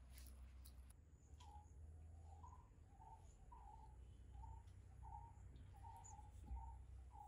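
Faint bird calling: a run of short, even notes at about two a second, starting about a second in, over a faint low hum.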